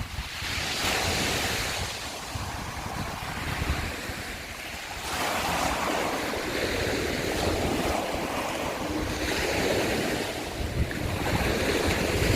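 Sea waves breaking and washing up over a shore of broken scallop shells, swelling and ebbing over several seconds. Wind rumbles on the microphone.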